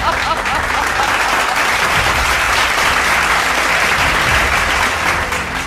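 A small group of people clapping steadily, fading out near the end.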